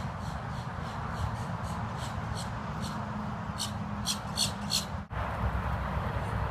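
Steady outdoor background rumble under a run of short, high chirping calls from a small bird, a couple a second, quickest and loudest about three and a half to five seconds in. A brief dropout comes about five seconds in, and the low rumble is louder after it.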